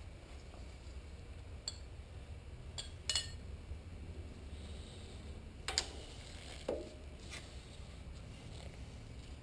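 Metal parts of a lathe's change-gear train (gears, bushing, fasteners) clinking and tapping as they are handled during disassembly. There are a handful of sharp clicks, the loudest about three and about six seconds in, over a low steady hum.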